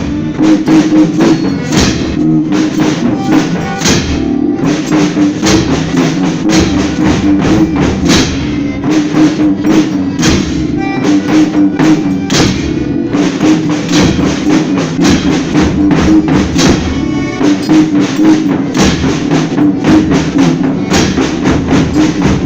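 Folia band playing an instrumental stretch between sung verses: drums and tambourine beating a steady rhythm over held notes.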